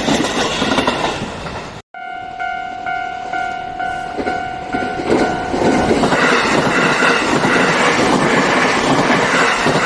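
Passing electric trains with wheels clattering over the rails. About two seconds in, the sound cuts to a railway level-crossing alarm ringing in quick repeated tones about twice a second, then another train passes loudly from about six seconds in, with the alarm still faintly audible.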